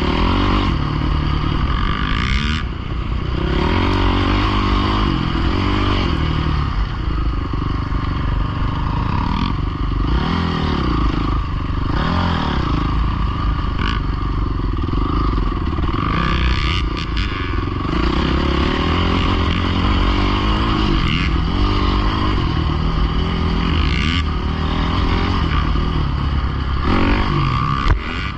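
Small dirt bike or pit bike engine running hard, its revs rising and falling over and over, as when riding a track.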